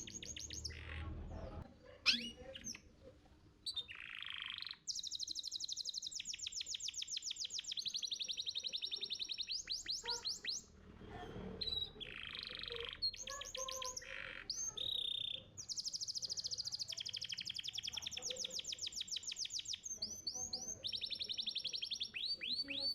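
Domestic canary singing a long, varied song: rapid trills of fast repeated high notes broken by short pauses, mixed with a few harsh, rasping notes.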